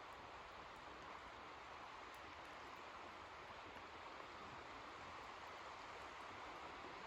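Faint, steady hiss of rain falling, with no distinct drops or wave surges.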